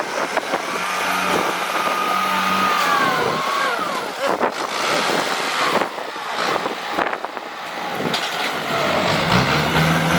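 A work vehicle's engine running and changing speed, with a whine that glides up and down and a few sharp knocks.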